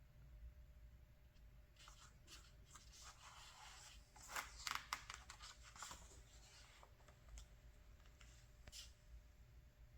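Faint rustling and crinkling of a paper catalog page being turned, with a few sharper crackles in the middle and a couple of light paper ticks near the end.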